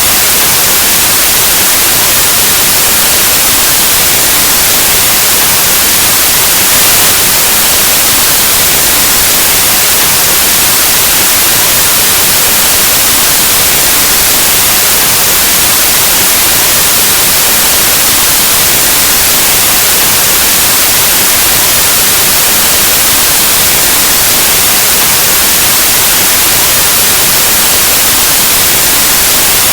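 Steady, loud white noise: a continuous even hiss like the static of an untuned analog television or radio, unchanging throughout.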